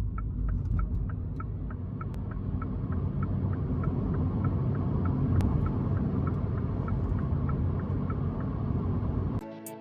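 Mini Cooper SE electric car accelerating hard from a standstill: a low road and tyre rumble that builds gradually, with no engine note, and a steady tick about four times a second. Music cuts in just before the end.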